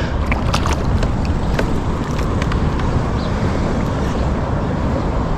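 Steady low rumble of wind buffeting the microphone, with a few faint clicks in the first two seconds.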